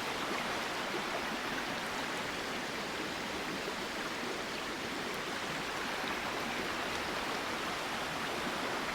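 A flowing river's steady rushing: moving water sounds at an even level throughout.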